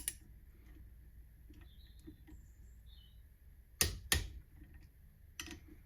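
A few sharp metal clicks from hand tools working on the big-end bolts of a motorcycle engine's connecting rods: two close together just before the four-second mark, then another near the end, over a faint steady hum.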